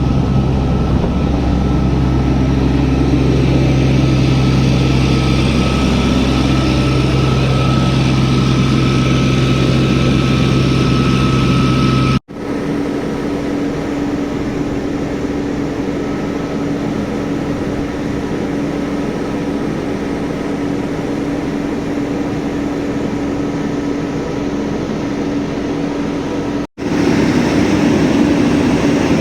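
Steady drone of an idling engine with a few held tones, dropping out abruptly twice where separate clips are joined.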